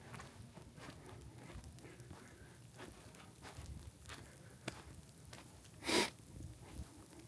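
Footsteps on wet pavement in light rain, a soft tap every half second or so over a faint steady patter. About six seconds in there is one short, louder rushing noise.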